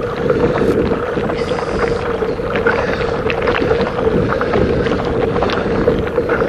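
Bicycle rolling over a bumpy cobbled track: a steady rumble from the tyres with frequent short knocks and rattles from the cobbles, and wind on the microphone.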